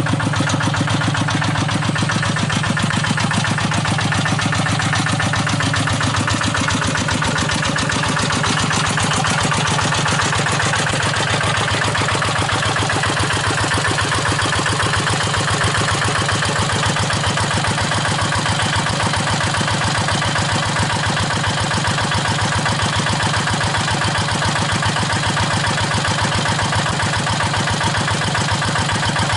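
Single-cylinder diesel engine of a rice-field hand tractor running steadily, with rapid, even firing pulses. Its low note shifts slightly about six seconds in.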